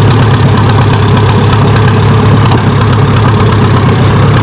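Farm tractor engine idling steadily and loudly, a constant low running note with no revving.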